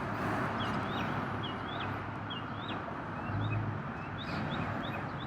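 A bird repeating short, sharp chirps, about two a second, over a steady rush of background noise.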